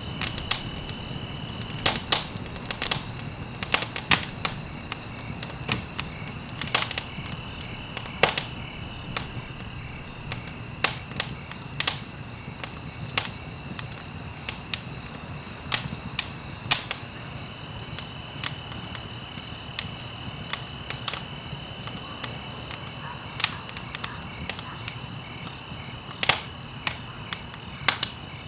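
Wood fire crackling: sharp irregular pops and snaps, several louder ones among many small crackles, over a steady low rumble of the flames.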